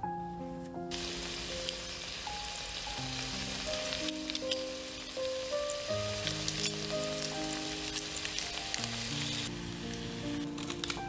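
Diced potatoes and onion sizzling as they fry in a pan, over background music. The sizzle starts about a second in and stops shortly before the end.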